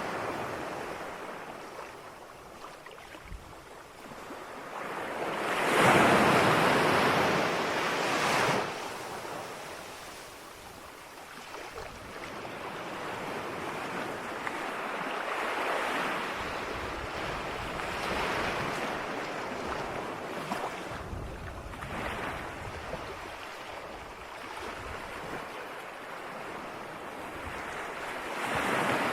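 Ocean waves breaking and washing ashore, one large wave about six seconds in and smaller swells after it.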